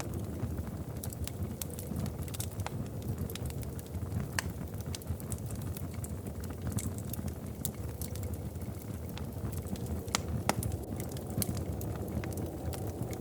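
Wood fire burning in a fireplace: a steady low rumble of flames with irregular sharp crackles and pops, one louder pop about ten seconds in.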